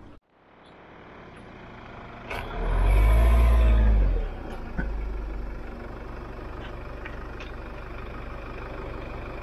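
Nissan Qashqai's engine starting: a click, then the engine catches and flares up loudly for under two seconds before settling to a steady low idle.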